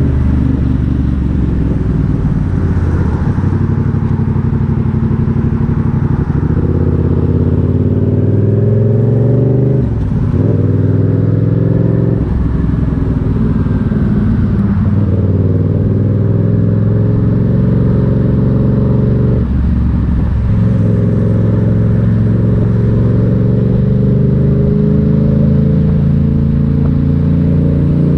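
Motorcycle engine running under way, its pitch rising and falling with the throttle. There are brief breaks and jumps in pitch about ten, twelve, fifteen and twenty seconds in.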